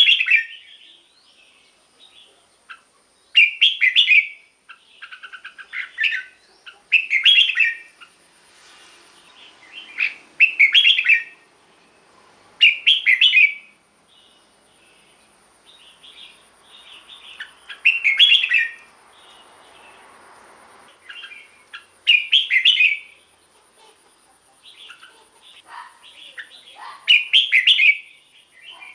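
Red-whiskered bulbul singing: short, loud, warbled phrases repeated about every two to three seconds, with softer chirps in the gaps.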